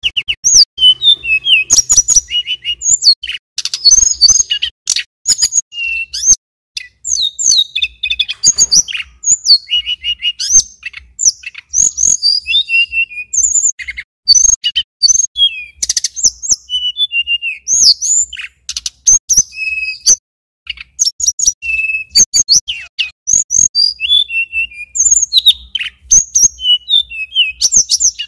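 Male tledekan gunung (sulingan gunung) singing hard: a fast, nearly unbroken string of sharp high chirps, short whistles and trills, pausing briefly twice.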